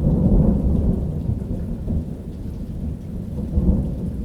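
A loud roll of thunder that breaks in suddenly and rumbles low, easing off and then swelling again near the end, with rain falling.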